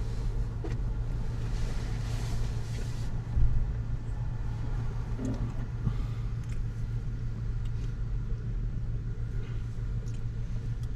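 Steady low road and engine rumble inside a moving car's cabin, with a brief thump about three and a half seconds in.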